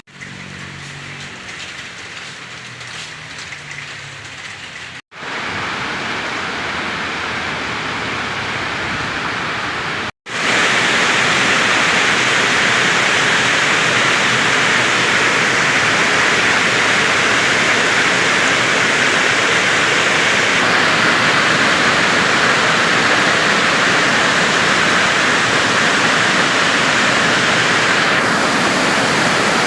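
Heavy rain pouring down in a dense, steady hiss. It cuts out for an instant twice, about five and ten seconds in, and is louder after the second break.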